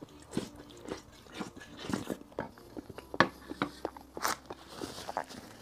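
Close-miked chewing and lip smacks on a mouthful of soft cheesy mashed potato, a string of small irregular wet clicks. A spoon scrapes the plate briefly about four seconds in.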